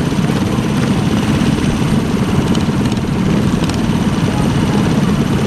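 Small minibike engine running steadily, with a fast, even chatter of firing pulses.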